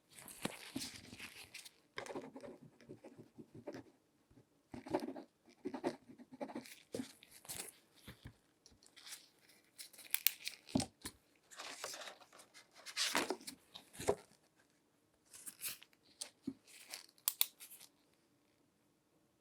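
Latex-gloved hands handling objects close to the microphone: irregular rustling, crinkling and sharp little clicks and taps, stopping near the end.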